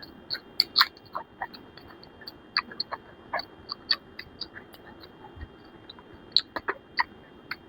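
Close-up eating sounds: irregular wet mouth smacks and sharp chewing clicks, several a second, with a few louder smacks.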